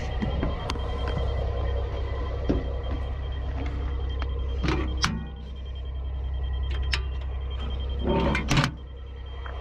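Diesel engine running steadily, with two short bursts of cranking-like mechanical noise, about five seconds in and again near the end, each cutting off suddenly: a bulldozer with dead batteries being tried on a jump pack.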